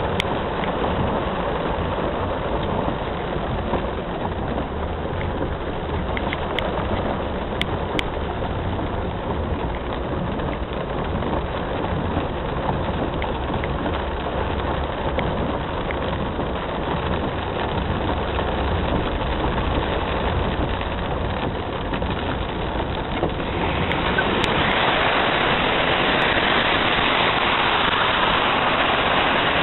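Steady rain hissing, with a vehicle's engine rumbling low underneath. The rain grows louder and harsher near the end.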